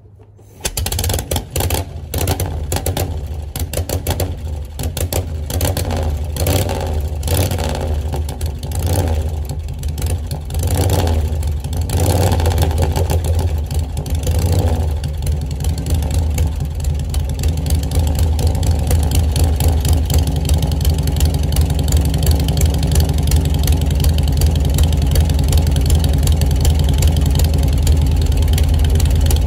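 1940 Harley-Davidson UL's 74-cubic-inch flathead V-twin catching on a kick start about half a second in. It runs unevenly, revved a few times, through the first half, then settles into steadier running.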